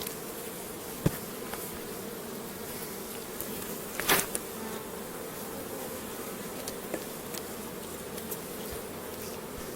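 Honeybees buzzing in a steady, dense hum around an opened hive. A few sharp knocks cut through it, the loudest about four seconds in.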